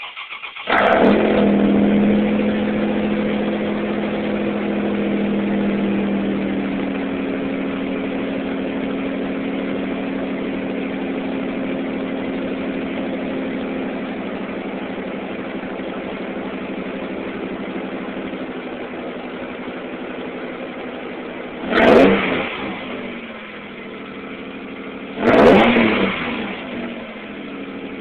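A 2008 Toyota Tacoma's engine, exhausting through straight pipes with Flowmaster Series 40 dual exhaust, starts up and catches within about a second. It then idles high and settles a little lower. Two short blips of the throttle come near the end.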